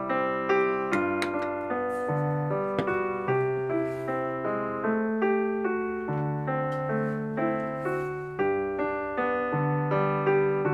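Background piano music: a gentle melody of evenly paced notes, about two a second.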